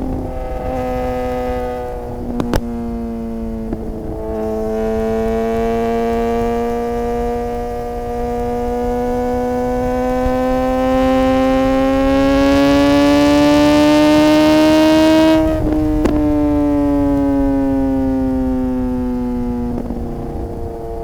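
Suzuki GSX-R600 inline-four engine under way, its pitch stepping down near the start and again about four seconds in, then climbing steadily for about eleven seconds as the bike accelerates, with wind noise rising. About fifteen seconds in the pitch drops suddenly and keeps falling as the bike slows.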